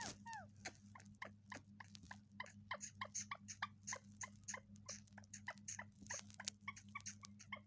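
Pet green parrot making a quick run of soft, short squeaky chirps and clicks, several a second, with a few falling squeaks at the start. A steady low hum runs underneath.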